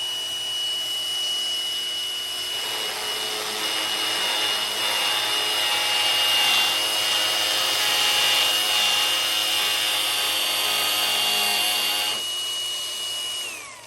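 Electric power tool running with a steady high whine and a rougher grinding noise over it for most of the time; the motor switches off and its whine falls away near the end.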